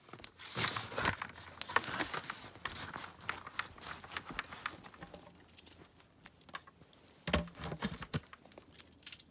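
Handling noise of gear being packed: a busy run of clicks, knocks and crinkling plastic for the first five seconds, then sparser clicks and one louder knock about seven seconds in.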